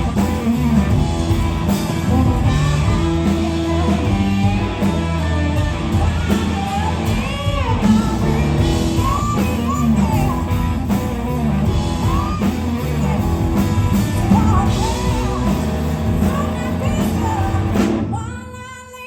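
Live blues-rock band playing, with electric guitar and drums under a sung vocal line. Near the end the music drops out abruptly for about a second.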